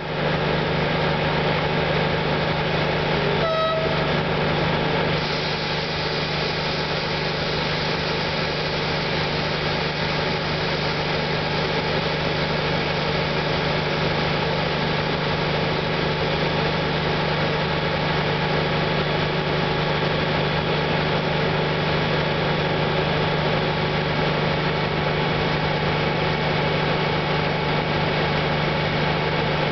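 Diesel engine of a Plan U diesel-electric commuter train running steadily, with one short horn toot about three and a half seconds in.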